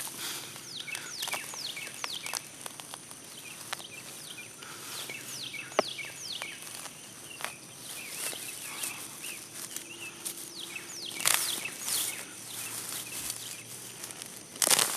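Outdoor ambience: birds calling with many short, quick downward-sliding notes, over irregular footsteps and rustling in grass, with a louder rustle or crackle about eleven seconds in.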